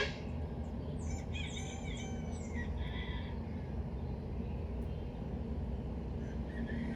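A few birds chirping in short, quick calls that glide in pitch, over a steady low background rumble, with a sharp click at the very start.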